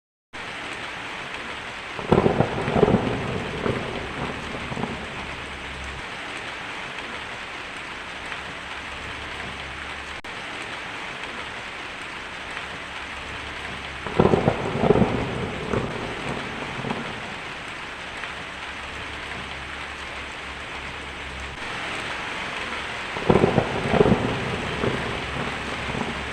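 Steady heavy rain with thunder rumbling three times: about two seconds in, around the middle, and near the end, each surge lasting a few seconds.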